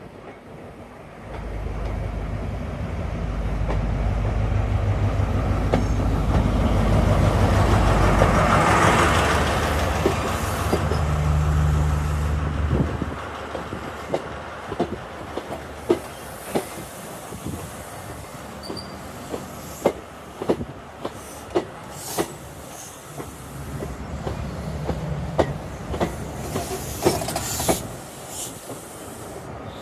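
High Speed Train's Class 43 diesel power car running loudly as it passes, its rumble building and then fading. The train then rolls in slowly, its wheels clicking over rail joints and points at irregular spacing, about once a second.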